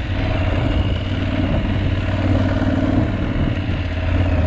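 Adventure motorcycle engine running steadily while riding off-road, with wind noise on the microphone over it.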